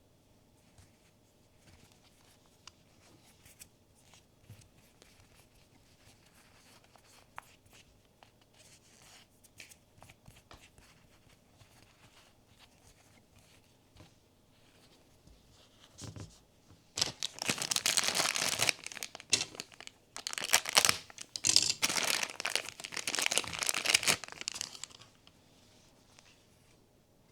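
Soft clicks and handling of a blind box, then about seventeen seconds in, several seconds of loud crinkling and tearing of the plastic packaging in three or four spells, which stop shortly before the end.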